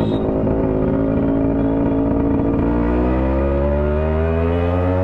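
Yamaha RX100's two-stroke single-cylinder engine running loud through an exhaust with its silencer baffle removed. It runs choppy at low revs, then about two and a half seconds in the pitch starts climbing steadily as the bike accelerates.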